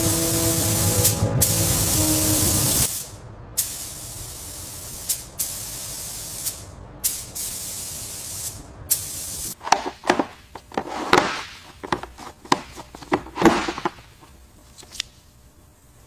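Air spray gun hissing in separate bursts that start and stop sharply as the trigger is pulled and released, loudest and longest at the start. Then a run of sharp clicks and knocks.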